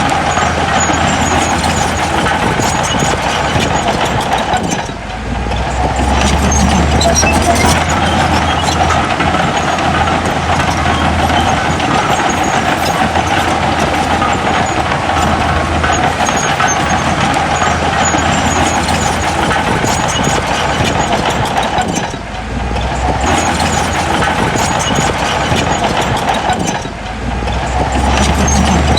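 Heavy diesel earthmoving machinery running steadily with a deep low hum; the sound dips briefly three times.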